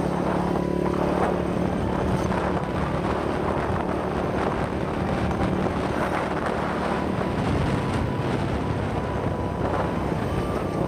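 Dirt bike engine running at a steady speed while riding, with wind noise on the helmet-mounted microphone.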